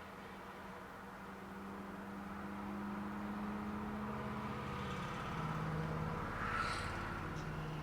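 A motorcycle passing on a nearby road, its engine growing louder, dropping in pitch about five seconds in as it goes by, then starting to fade.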